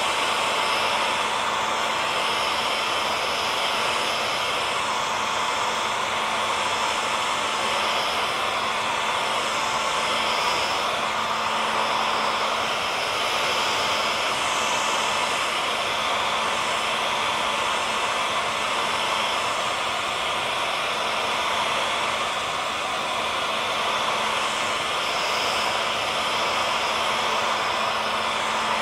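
Hair dryer running steadily: an even rushing blow of air with a faint motor hum held at one pitch, unchanging throughout.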